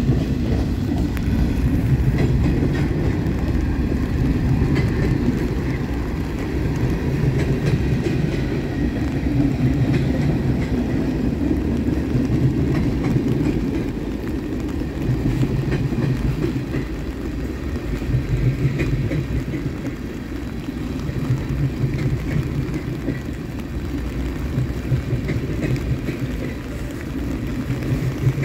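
Canadian National freight train's cars, covered hoppers and then tank cars, rolling past on the rails. A steady rumble of wheels on rail swells and eases about every three seconds, with faint clicks.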